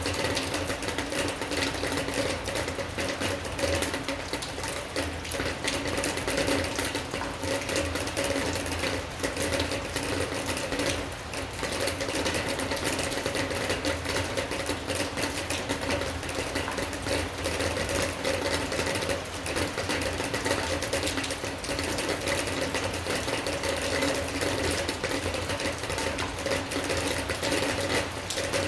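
Rain falling steadily, a dense rapid patter of drops on a hard surface, with a steady low hum underneath.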